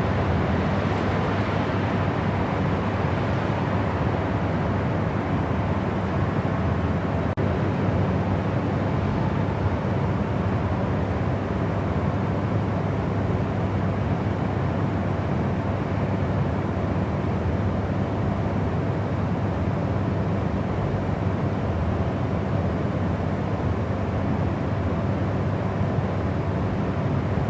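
Steady, unchanging white-noise sleep track, weighted toward the low end like a rumble, with a faint steady hum inside it.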